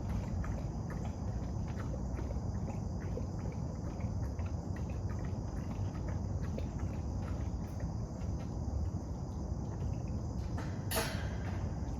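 Steady high-pitched insect chirring over a low background rumble, with many small irregular clicks and one sharper click near the end.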